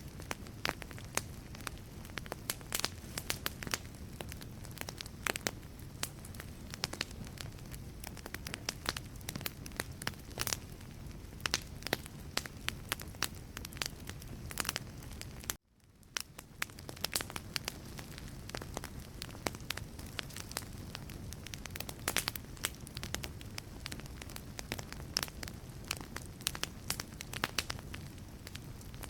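Wood fire burning in a fireplace: logs crackling and popping in quick, irregular snaps over a steady low hiss of the flames. About halfway through, the sound cuts out almost completely for a moment and fades back in.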